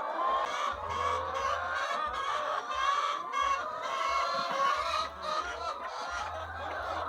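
A flock of chickens clucking together, many overlapping calls at once, with scattered light clicks.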